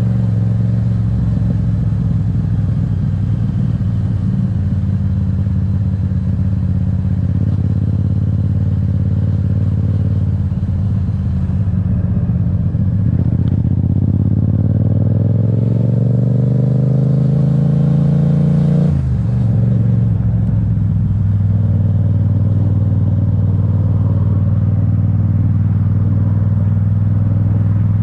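Yamaha MT-07's 689 cc parallel-twin engine running on the move. About halfway through, the engine note climbs steadily for several seconds as the bike accelerates, then drops suddenly and settles back to a steady cruise.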